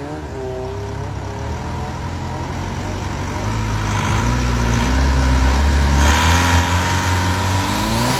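Twin-turbo engine of a long-tail racing boat running hard, its pitch climbing steadily over several seconds as the boat accelerates. A louder hiss joins it about six seconds in.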